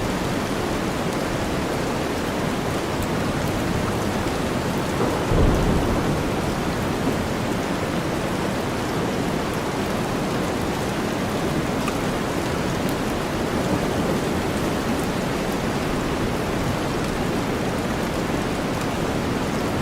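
Steady rainstorm mixed with deep white noise, an even hiss of rain. A short rumble of thunder comes about five seconds in.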